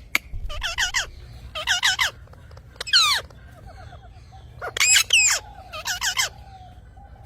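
Parrot calling in about five short bursts of rapid, wavering squawky chirps, with short pauses between them.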